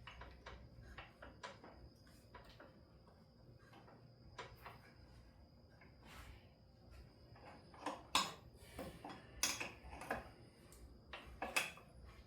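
Irregular metallic clicks and knocks from a wrench turning the forcing screw of a jaw puller on a tight part. A few louder knocks come in the second half.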